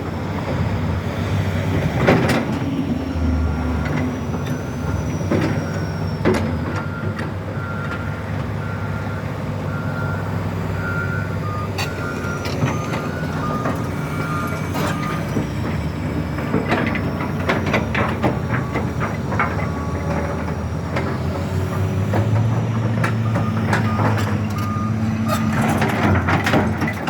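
Diesel backhoe running steadily at work, with its reversing alarm beeping in two runs of evenly spaced beeps and several sharp metal clanks from the bucket and machinery.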